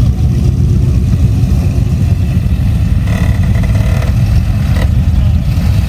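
Deep, loud exhaust rumble of a classic car's engine running steadily as it drives out, with a short knock near five seconds in.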